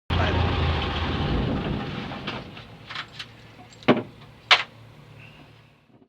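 Cessna 162 Skycatcher's Continental O-200 four-cylinder engine dying away over about two and a half seconds, as at shutdown after taxiing to parking, followed by two sharp clicks.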